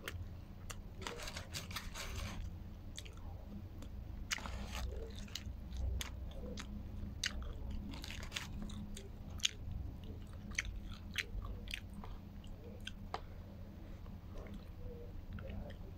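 A person chewing a mouthful of shawarma close to the microphone, mukbang style: scattered, irregular sharp mouth clicks over a steady low hum.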